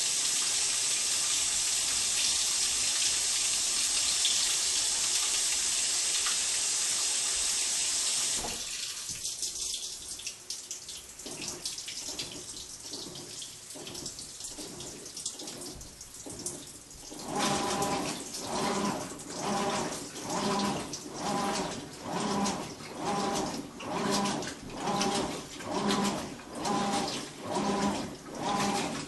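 Whirlpool Cabrio top-load washer filling with water, a steady hiss that cuts off suddenly about a third of the way in. After a quieter spell, the wash motor starts a loud, rhythmic humming groan that pulses a little more than once a second as the drive works back and forth: the loud noise that the owner questions as normal.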